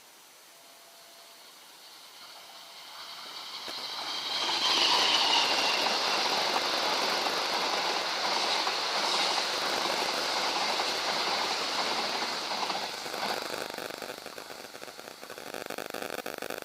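Train passing at speed: the rolling and clatter of its wheels on the rails swell as it approaches, stay loud for about nine seconds, then fade away as it recedes.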